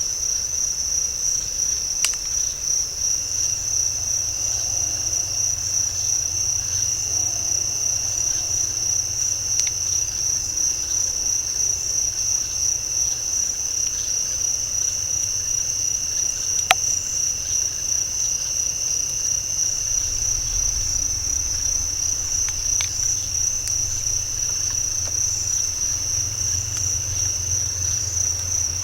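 Night insect chorus in a swamp: a steady, high-pitched continuous trilling with a fainter second tone beneath it. A few short sharp clicks stand out, the loudest about 17 seconds in.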